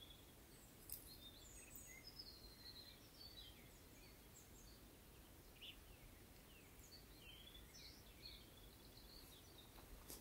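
Faint songbirds calling: scattered short chirps and whistles over an otherwise near-quiet background.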